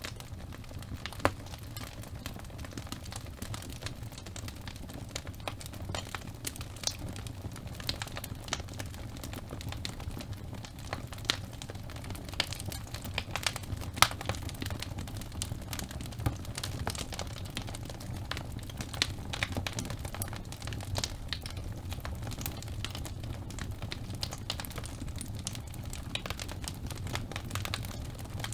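Wood fire burning in a fireplace: a steady low rumble of the flames with irregular crackles and snaps from the logs, a few louder pops standing out.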